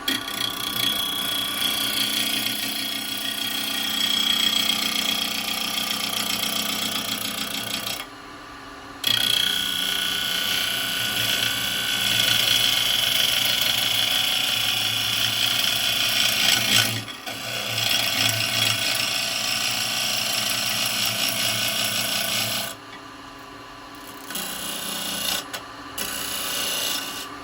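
Thompson 5/8-inch gouge cutting across the face of a spinning dry bowl blank on a wood lathe, a steady scraping cut to true up the out-of-round front. It comes in three long passes with brief breaks about 8 and 17 seconds in, then two short touches near the end, over the lathe's motor hum.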